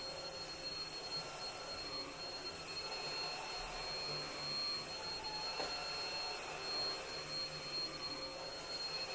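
Vacuum cleaner running steadily, its motor giving a constant high whine over a whooshing hiss, with one short click about halfway through.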